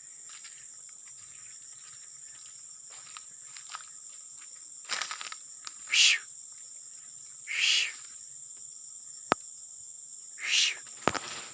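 Barn owls giving four short hissing screeches, each about half a second long, over the steady high whine of crickets; a single sharp click sounds between the third and fourth screech.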